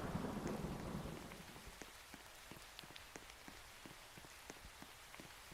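Faint rain: scattered drops ticking irregularly on a surface, several a second. A low rumble fades away over the first second or so.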